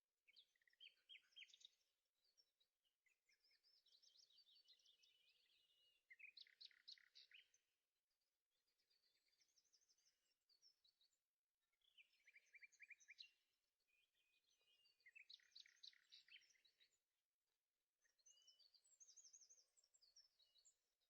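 Faint birdsong: one song phrase of rapid trills and chirps after another, a second or two each, with short pauses between them.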